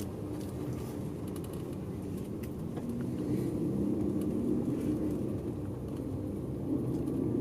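A diesel route bus's engine running with a steady low drone, heard from inside the cabin. It grows slightly louder about three seconds in.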